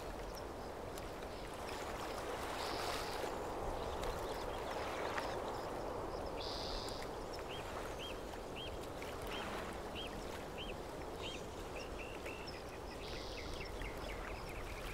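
Outdoor background ambience: a steady low hiss with a bird calling in short repeated chirps, one or two a second through the second half, and a few brief buzzy notes.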